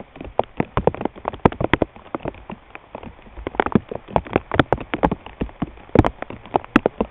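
Large raindrops striking a hard surface close to the microphone: separate sharp taps, several a second at uneven intervals and of uneven loudness.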